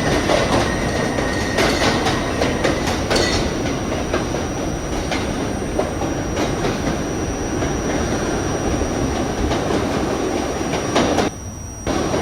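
R68A subway train running between stations: steady wheel and track noise with many clicks as the wheels pass over rail joints, and a faint high wheel squeal in the first few seconds. The noise briefly drops away for about half a second near the end.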